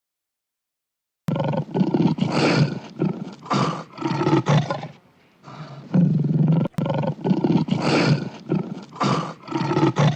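Big cat roaring in a series of short, repeated roars, coming in after about a second of silence and pausing briefly midway.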